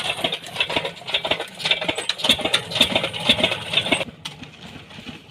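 An engine running with a rapid, dense rattling clatter, which stops abruptly about four seconds in.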